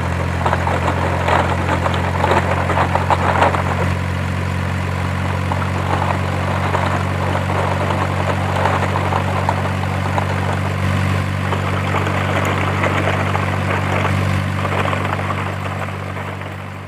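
Steady low engine drone, like a heavy engine idling, with irregular light clattering over it. It fades out near the end.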